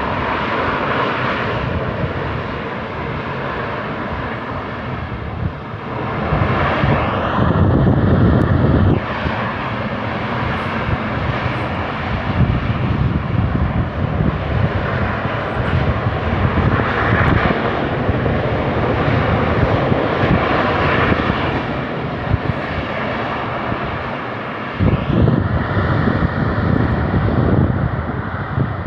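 Semeru volcano's crater continuously venting ash, a steady jet-like rushing noise that swells twice, about six seconds in and again near the end.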